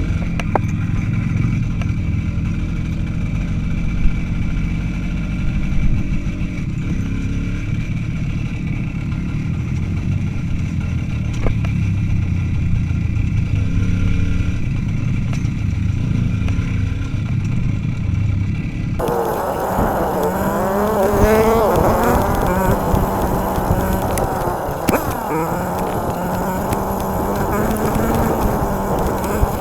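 Motorcycle engine running while riding, a steady low drone. About two-thirds of the way through the sound cuts abruptly to a brighter, noisier engine note that rises and falls in pitch.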